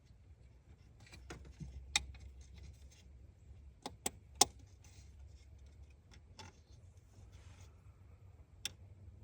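Scattered sharp clicks and clinks from tools and parts being handled, about half a dozen of them, the loudest about four and a half seconds in, over a faint low hum.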